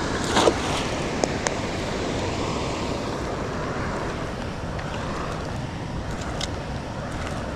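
Steady rush of falling water from a waterfall, with a few brief clicks in the first couple of seconds.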